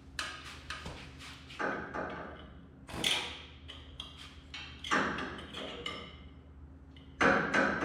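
Irregular metal clanks and knocks from tools and steel parts being handled, several with a short ringing note. The loudest hits come about three seconds in, about five seconds in and just past seven seconds, over a steady low hum.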